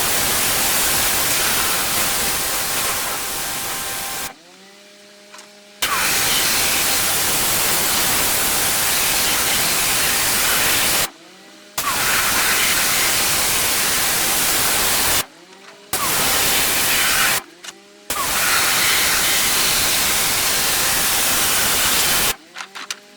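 Pressure washer jet spraying with a loud, steady hiss, stopped four times as the trigger is released. In each pause the washer's engine is heard on its own, its pitch rising briefly as the load comes off.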